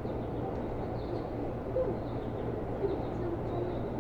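Steady low hum of a Seibu New 2000 series commuter electric train, heard from inside the car, with a few faint short chirps over it.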